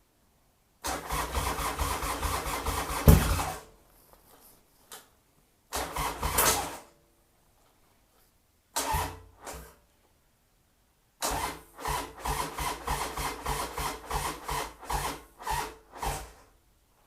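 Starter cranking a diesel engine after its glow-plug preheat, in four tries: a long crank about a second in, short ones near six and nine seconds, and a long one from about eleven seconds. The engine turns over with an even chugging but never catches; it is a no-start. There is one sharp bang about three seconds in.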